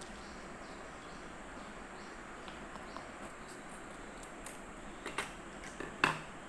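Steady background hiss with a few light clicks and knocks, the loudest a little before the end.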